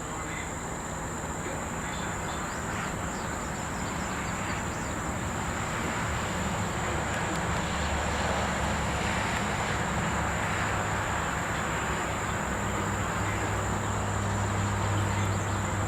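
A motor vehicle's engine hum and road noise that slowly grow louder, as if approaching, over a steady high-pitched insect chorus.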